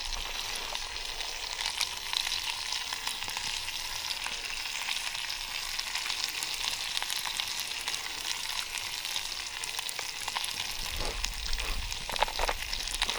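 Rendered pork fat sizzling and crackling steadily in a camp pan heating over a fire, with ground black pepper just added. A few low knocks of the pan being handled come near the end.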